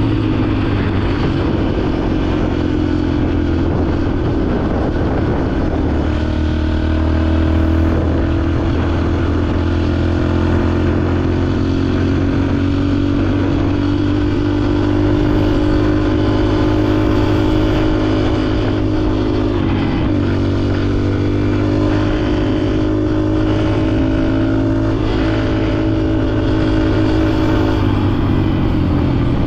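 Dirt bike engine running under load while riding. Its pitch climbs slowly, dips sharply for a moment about two-thirds through, climbs again, then drops near the end.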